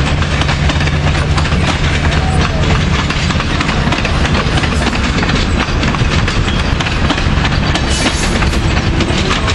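Passenger coaches of a train rolling past, steel wheels clacking over the rail joints in a steady clatter, with a low rumble that eases after the first few seconds.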